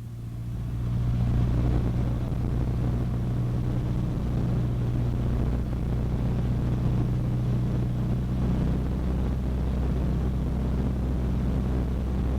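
Cessna 152's four-cylinder Lycoming engine and propeller droning steadily in the cabin. It swells slightly in the first second or two, then holds a level, even rumble.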